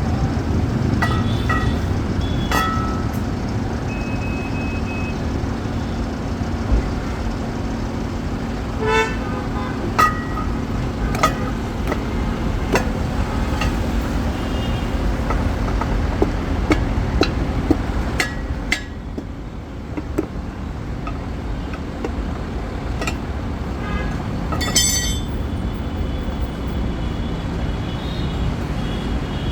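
Steady road-traffic rumble with scattered sharp clicks and taps and a few short horn toots.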